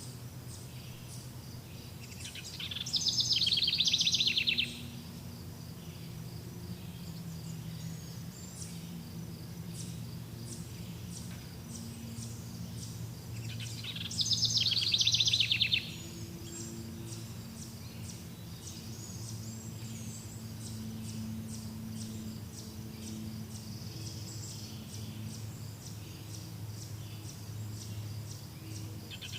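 Forest birdsong: a loud, rapid trill comes twice, about two seconds each and some ten seconds apart. It sits over faint high chirping and a low steady hum.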